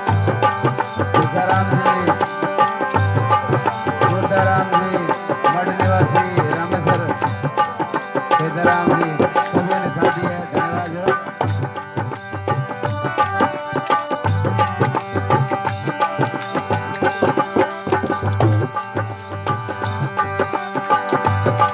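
Instrumental interlude of a Rajasthani folk bhajan, without singing: a steady hand-drum rhythm under sustained melody notes.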